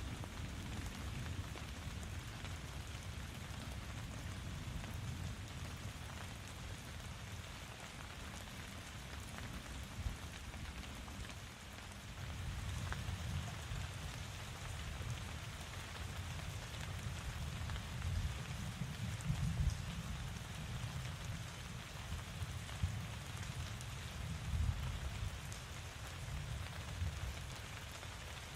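Steady rain falling, a continuous hiss of drops with a low, shifting rumble underneath and a few louder drips here and there.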